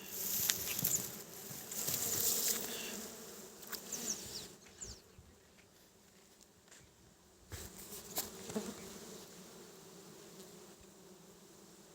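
Honeybees buzzing as a steady hum, with louder rustling and crackling noises over it in the first few seconds and again briefly around eight seconds in.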